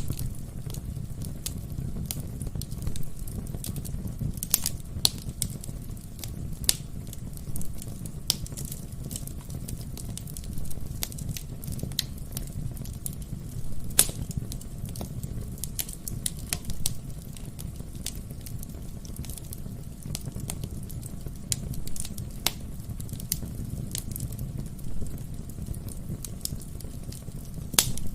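Wood fire burning in a fireplace: the logs crackle and pop in sharp, irregular snaps over a steady low rumble of the flames.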